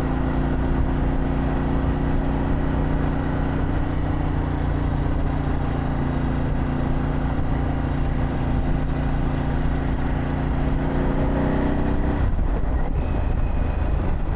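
Harley-Davidson Pan America's Revolution Max V-twin with a Vance & Hines exhaust running at a steady engine speed while riding. About twelve seconds in, the engine note drops off.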